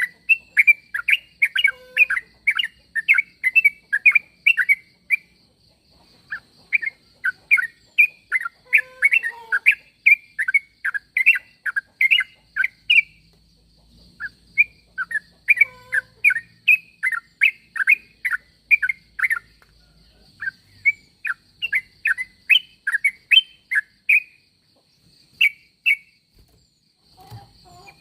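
Yellow-vented bulbul (trucuk) calling: runs of rapid, bubbly chattering notes, about four a second, broken by short pauses. A faint steady high whine runs underneath.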